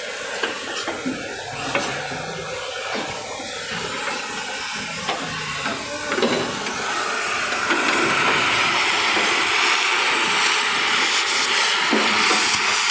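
A steady hiss that grows louder about seven seconds in, with a few faint clicks.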